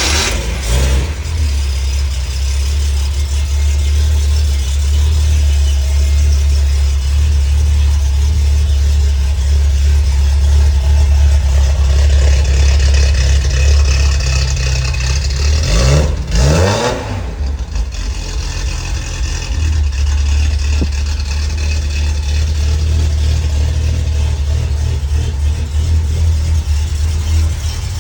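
1972 Datsun 240Z's straight-six, built with a street performance cam, idling steadily just after a cold start. About two-thirds of the way through, the throttle is blipped once, and the engine revs up and falls back to idle.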